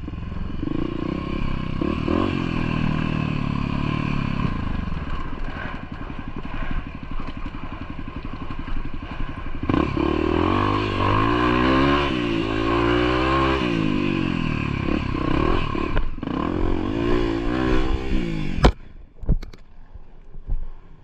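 Off-road trail vehicle's engine running under load, its pitch rising and falling repeatedly as it is revved, with clattering over rough ground. Near the end comes a sharp knock, and the engine sound drops away.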